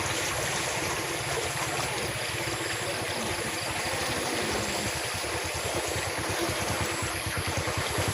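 Steady rush of running water, with a low rapid throbbing underneath that grows stronger near the end.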